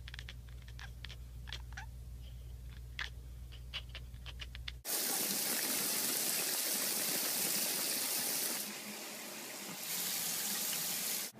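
A low steady hum with scattered light clicks, then from about five seconds in a loud, steady rush of running water, which dips for about a second near the end.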